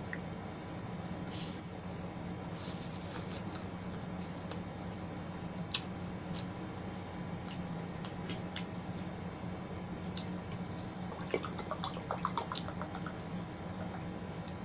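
Close-miked wet eating sounds: scattered smacks and clicks of food in the mouth, thickening into a quick run of them about three quarters of the way through, over a steady low hum.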